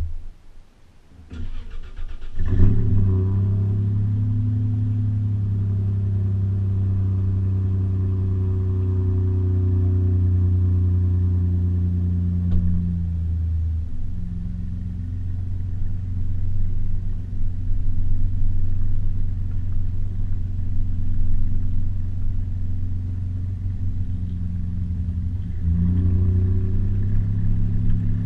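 A thump, then a Toyota 4Runner engine is cranked and starts, settling into a loud, steady idle through a Flowmaster 40 series muffler. About halfway through, the idle drops and turns less even, then picks up again near the end.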